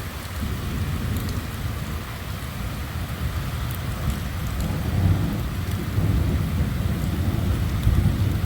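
Rain falling steadily while thunder rumbles low, swelling louder in the second half.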